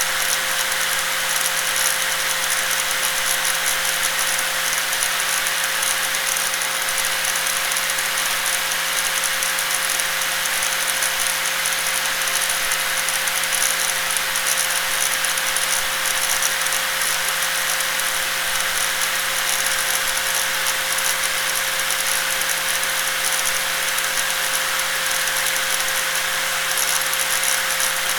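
Electric angle grinder running continuously with a steady high whine over a dense rattling hiss, unchanging in pitch and level throughout.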